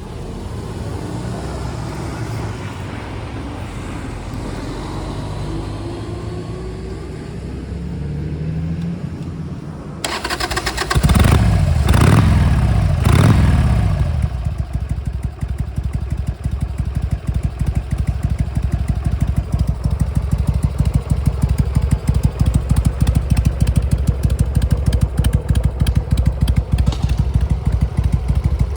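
2003 Harley-Davidson XL883C Sportster's air-cooled V-twin starting about ten seconds in, blipped three times in quick succession, then settling into a steady idle with a regular pulsing beat. Before it starts there is only a low steady background noise.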